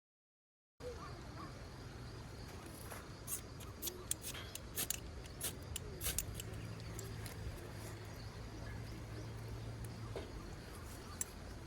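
Outdoor background with scattered small clicks and taps. A steady low hum runs through the middle, and the sound cuts in after a brief moment of dead silence at the start.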